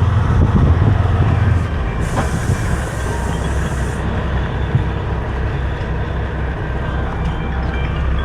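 Semi-truck diesel engine running at low speed, a steady low rumble that eases down slightly about two seconds in, with a soft hiss for a couple of seconds.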